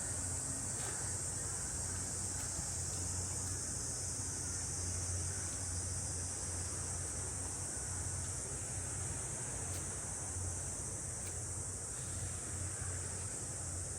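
Steady chorus of cicadas buzzing in the trees, a continuous high-pitched drone, with a low steady rumble underneath.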